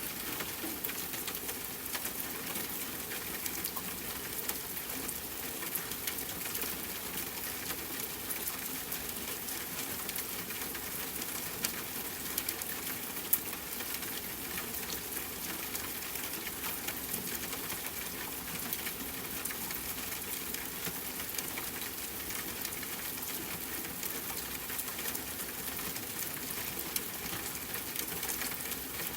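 Rain falling steadily on a tent with a campfire crackling: an even hiss dotted with small ticks, and two louder pops near the middle.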